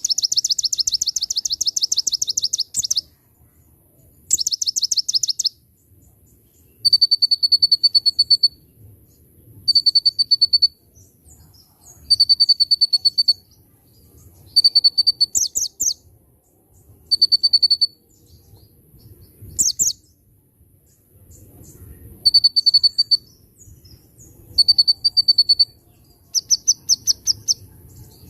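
A konin songbird singing nonstop in the manner bird-keepers call gacor: a string of rapid, high trilled phrases about a second long with short pauses between them, some buzzy and some a steady high trill. The phrases are the ciblek (bar-winged prinia) song it has learned.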